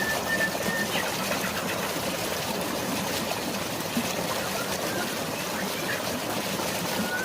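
Steady rush of falling and flowing water, like a waterfall in drizzling rain. A bird's thin, high held whistle fades out about a second in and comes back faintly near the end.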